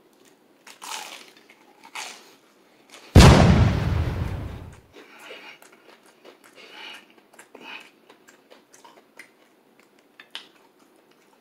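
Close-up biting and chewing of crispy fried chicken: the crust crunches and crackles in short bursts. About three seconds in comes a loud, deep hit with a crackling tail that fades over nearly two seconds, the loudest sound.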